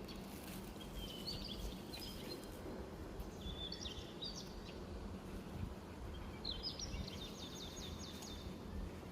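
Songbirds singing in three short phrases of high chirps, the last a rapid trill of about a dozen notes lasting a second and a half, over a steady low background rumble.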